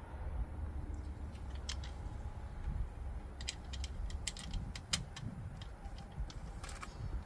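Scattered, irregular light metallic clicks and clinks of hand work on parts, over a steady low rumble.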